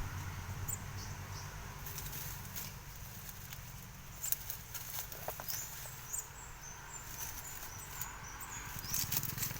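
Outdoor farmyard ambience: many short, high chirps, scattered light taps and a low rumble. No goat bleat stands out.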